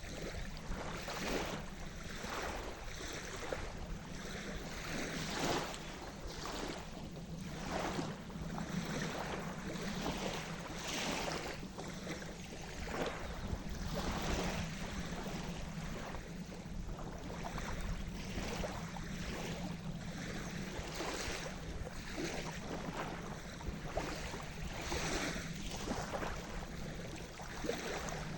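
Sea surf: small waves washing and splashing on the shore in close, irregular succession over a steady rush of water.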